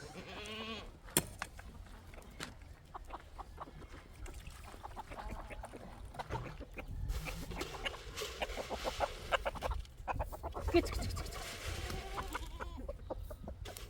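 Chickens clucking, a run of many short clucks, with a sharp knock about a second in.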